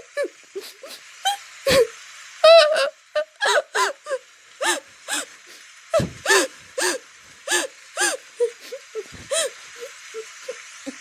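A voice crying: short, pitched sobs and whimpers about two a second, growing fainter near the end.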